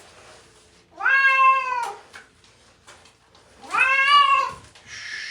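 Domestic cat meowing in distress while being given a bath: two long, loud, drawn-out meows, each rising then falling in pitch. Near the end a steady hiss of running water starts.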